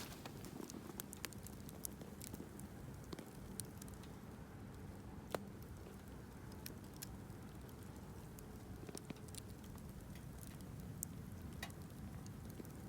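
Bonfire crackling: irregular sharp pops and snaps over a low steady hiss, with one louder pop about five seconds in.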